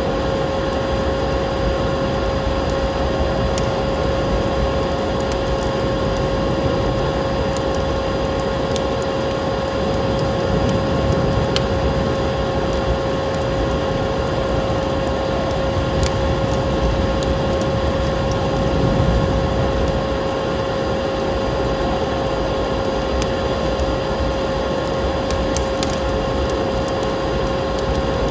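Wood fire crackling, with scattered sharp pops over a steady rushing noise and a steady tone throughout.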